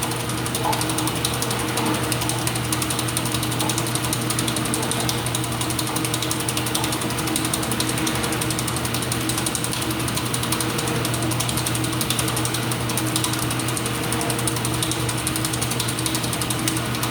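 IPSO washing machine running through its cycle: a steady motor hum under a fast, even, ratcheting clicking.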